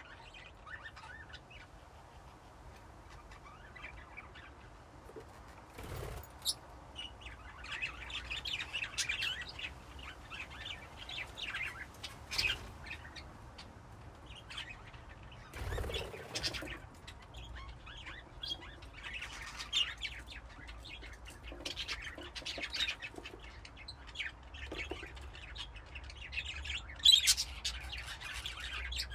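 A flock of budgerigars chirping and chattering, many short overlapping chirps that grow busier after the first several seconds. Two brief rustling noises come about 6 s and 16 s in.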